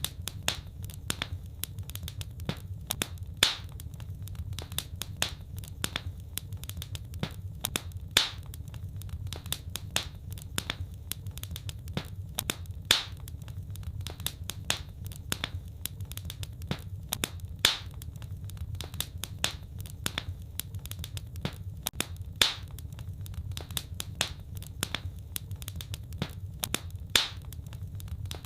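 Wood fire crackling over a steady low rumble, with many small crackles and a louder pop about every five seconds.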